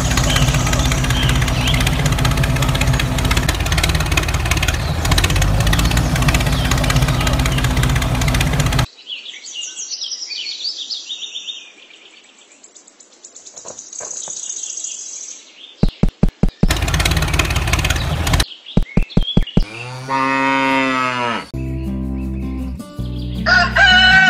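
A small motor running loudly and steadily, then cut off abruptly about nine seconds in. After a quieter stretch with bursts of rapid clicking, a cow moos once, near the end.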